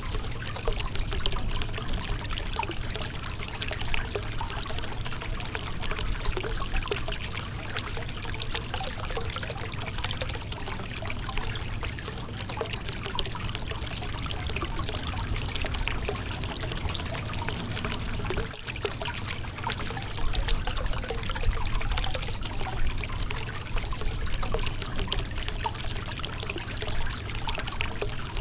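River water flowing and splashing over a rocky riverbed: a steady rush with many small trickles and splashes and a low rumble.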